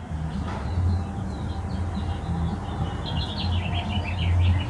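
Small birds chirping, with a quick run of short chirps about three seconds in, over a louder, uneven low rumble.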